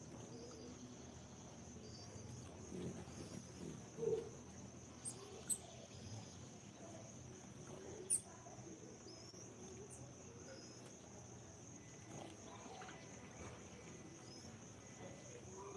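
Steady high insect drone, like crickets, with a few short sharp clicks or chips about five and eight seconds in.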